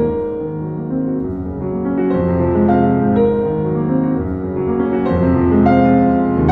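Piano music: a melody over sustained chords.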